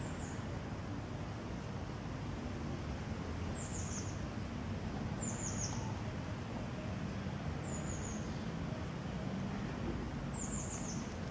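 Short, high bird chirps, each a quick falling note, often two or three in a row, coming five times every two to three seconds over a steady low outdoor rumble.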